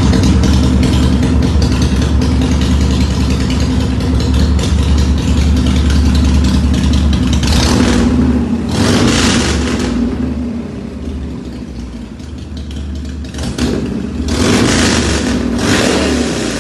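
High-compression engine of a 1994 custom motorcycle running, blipped up in revs twice, about eight seconds in and again about fourteen seconds in, then settling back.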